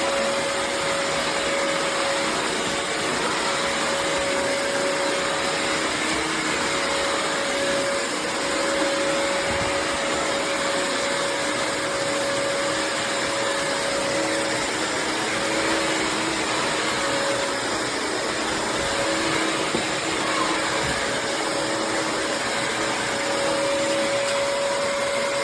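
Bissell CrossWave HydroSteam wet-dry vacuum running steadily over a floor: a constant rushing of suction with a steady motor whine.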